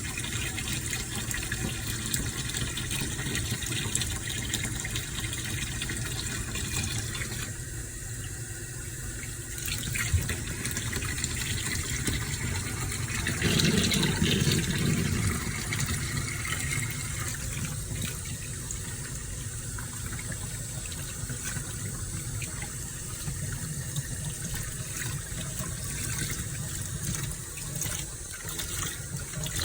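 Water running steadily from a tap, splashing, with a louder, fuller gush for a couple of seconds about halfway through.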